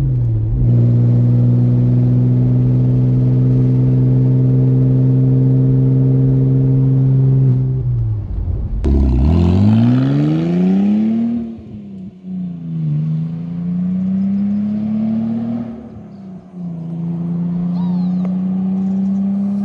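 A 2003 Audi A4's engine running with its exhaust cut off behind the catalytic converters, pulling under way. It holds a steady drone for several seconds. About eight seconds in the pitch drops at a gear change, then climbs as it revs up again, and it dips and rises through further shifts before settling.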